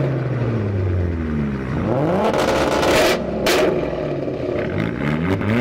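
Car engine free-revving: the revs fall away at the start, climb again about two seconds in, and rise once more near the end. A sharp exhaust pop comes about three and a half seconds in.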